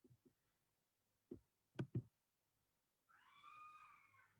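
Faint sounds against near silence: a few soft clicks in the first half, then near the end a high-pitched, drawn-out cry lasting about a second.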